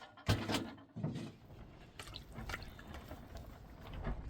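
Water splashing and dripping, with two louder knocks in the first second and fainter knocks after.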